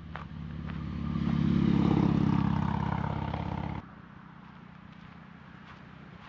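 Motorcycle engine running, growing steadily louder to a peak, then dropping suddenly just before four seconds to a quieter steady hum.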